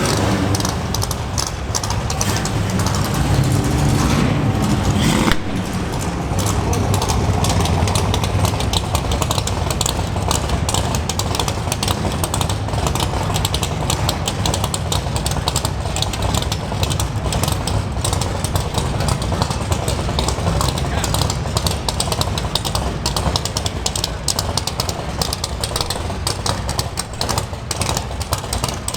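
Loud V8 muscle car exhaust rumbling at low revs. The sound changes abruptly about five seconds in.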